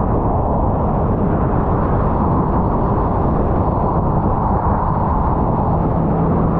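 Jet ski engine running steadily, a low hum under a dense, even rushing noise.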